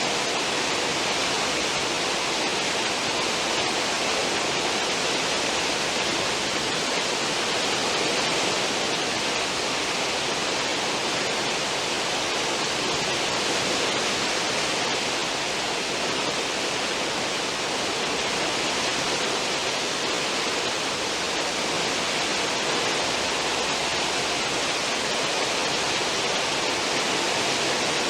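Cruise ship's stern wake: churned seawater rushing in a steady, unbroken hiss that holds an even level throughout.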